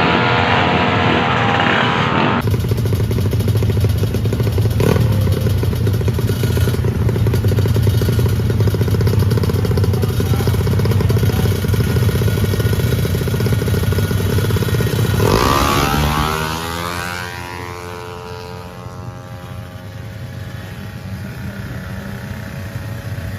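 Tuned 200cc automatic scooter engine held at high, steady revs; about sixteen seconds in the throttle is released and the revs fall away and drop lower.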